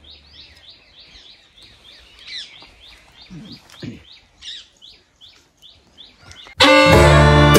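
Birds chirping: a faint, quick run of short high chirps, about four a second, with a few other calls among them. About six and a half seconds in, loud music with strings cuts in suddenly and drowns them out.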